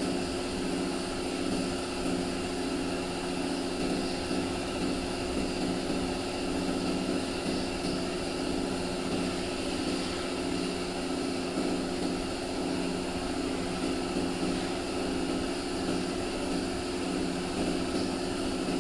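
Steady mechanical hum of a motor running continuously, with a few low tones that pulse slightly and no break or change in level.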